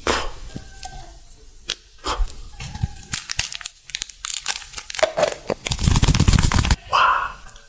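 Close-miked ASMR eating sounds: sharp crackles, crinkles and tearing-like noises from food and its packaging, with a dense, loud burst of crackling a little after halfway.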